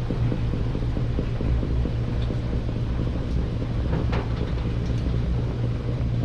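Samsung front-load washing machine running, with a steady low hum that pulses slightly.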